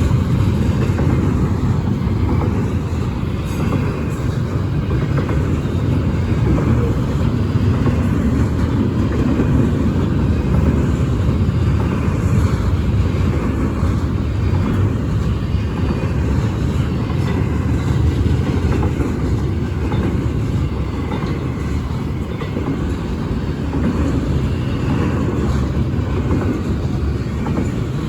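Intermodal freight train cars rolling past, with a steady rumble of steel wheels on rail.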